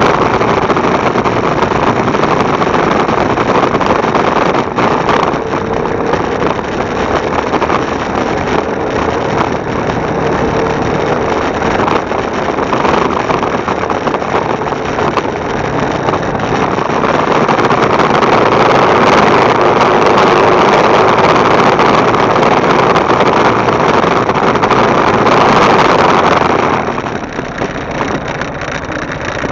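Motorcycle engine running while riding, with wind rushing over the camera's microphone. It grows louder around the middle and drops off suddenly a few seconds before the end.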